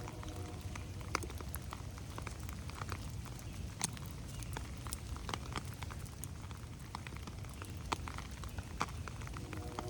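Rain dripping in a forest: large drops strike leaves and the ground at irregular intervals, each a sharp tap, over a steady low rumble.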